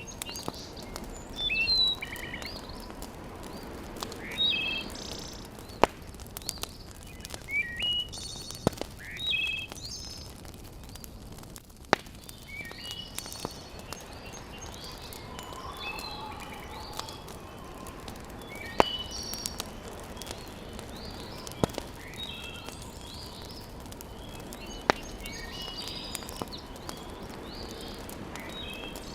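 Several birds chirping and calling in short phrases throughout. Single sharp crackles from a wood fire come every few seconds, over a faint steady hiss.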